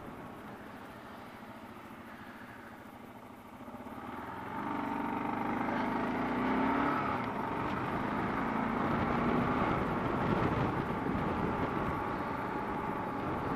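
Kawasaki KLR650's single-cylinder engine running on the road with wind noise, getting louder about four seconds in as the bike pulls harder.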